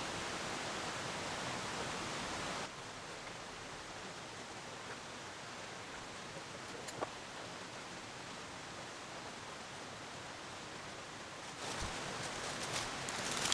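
Steady outdoor hiss with no distinct events, dropping a little in level about three seconds in, with a faint click about seven seconds in.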